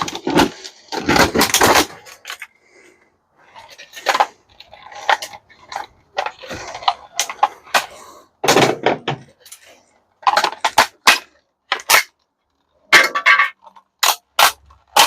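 Irregular clanks, clicks and rattles of metal and plastic parts as a dishwasher is pried and broken apart by hand, with short clusters of clatter and brief pauses between them.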